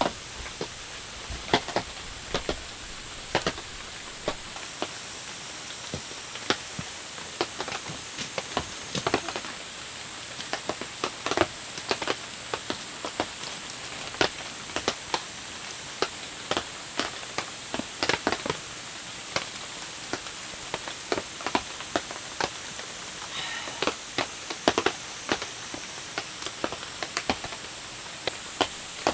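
Steady rain with irregular heavy drops striking close by, several sharp taps a second.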